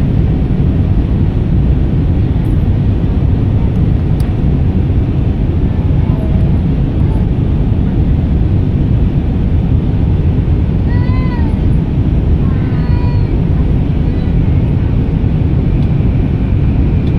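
Airliner cabin noise in flight: a steady, deep rumble of engines and rushing air. Past the middle, two short high-pitched arching cries, like a small child or a cat mewing, rise briefly over it.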